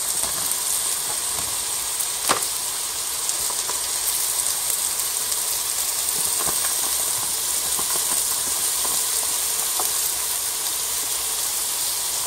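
Diced pancetta and sofrito vegetables sizzling steadily in olive oil in a stockpot, with one sharp tap about two seconds in.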